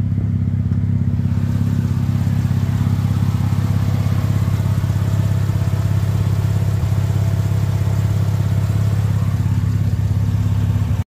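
Mazda RX-8's 13B Renesis rotary engine idling steadily at about 1,000 rpm, with an electric radiator cooling fan running over it. Only one of the car's two radiator fans is running; the owner thinks the other one is not working.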